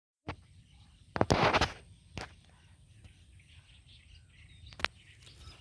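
Faint bird calls over outdoor background noise, broken by a loud, brief rustling burst about a second in and a few sharp clicks.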